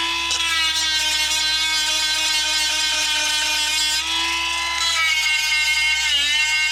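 A 12-volt handheld electric chainsaw sharpener runs steadily with a whine as its 7/32-inch grinding stone files the chain teeth. The pitch dips briefly twice, about four and about six seconds in.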